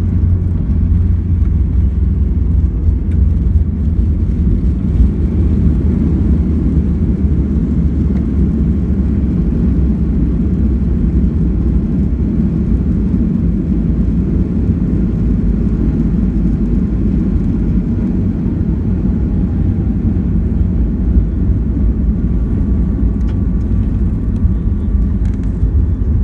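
Cabin noise inside a Boeing 737-800 on the ground after landing: a steady low rumble of the twin jet engines and the wheels rolling. The deepest part of the rumble eases off about nine seconds in.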